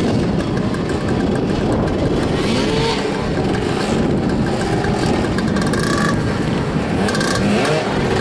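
Several motoball motorcycles running and revving together, engine pitches repeatedly rising and falling as riders accelerate and brake.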